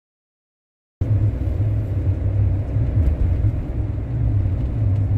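Steady low rumble of a camper van driving on the road, starting about a second in.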